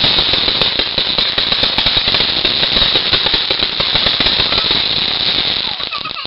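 Fireworks crackling: a dense, rapid run of small pops that keeps up without a break and dies away near the end.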